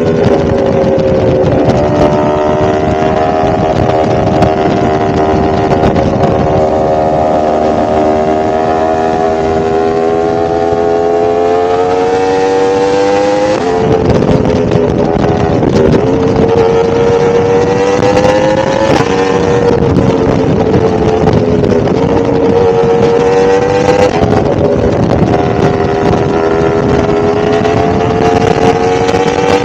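1000cc motorcycle engine running on the move, its pitch rising slowly as it pulls. About fourteen seconds in the pitch drops suddenly, as on an upshift, then holds and climbs gently again.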